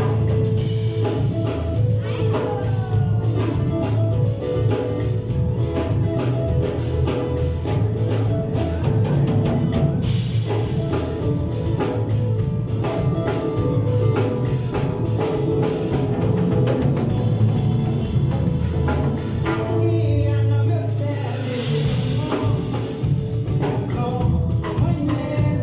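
Live gospel worship music: a band with drum kit and a strong bass line playing continuously, with singing.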